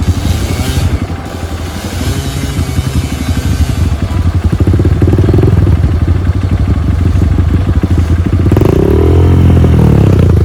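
Trail motorcycle engine running under load, getting louder about halfway through, with the revs rising again near the end.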